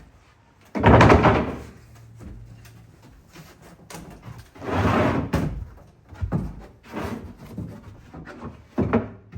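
Plywood boards knocking and thudding as they are fitted into notches in a pickup truck bed: a loud bang about a second in, a longer clatter around five seconds, then several smaller knocks.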